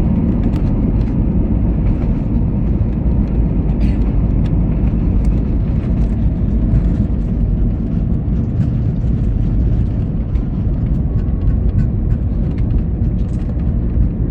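Cabin noise inside a British Airways jet airliner around landing: a steady, heavy low rumble of the engines and the aircraft moving, with faint light rattles and clicks from the cabin.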